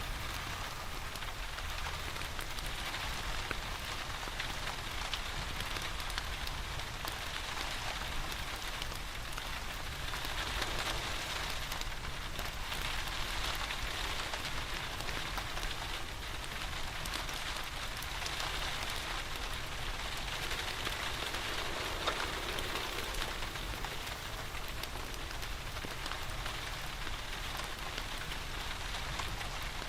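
Steady rain falling, mixed with the faint crackle of a wood fire in a fireplace.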